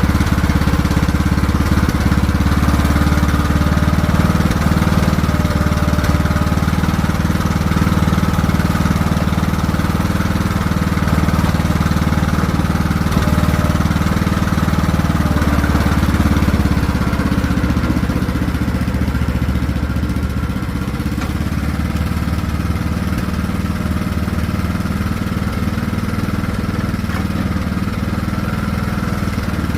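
Craftsman T1600 riding lawn mower's engine running steadily during a mowing drive, on its newly fitted carburetor. It eases a little slightly over halfway through.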